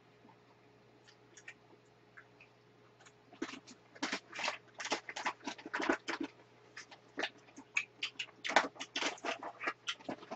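People eating seafood stew and noodles: irregular wet chewing and mouth smacks, starting about three seconds in and coming thick and fast.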